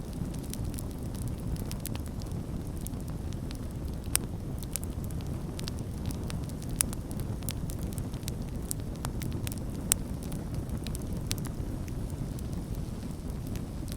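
Campfire burning: a steady low rush under many scattered sharp crackles and pops, with three louder pops about 4, 7 and 10 seconds in.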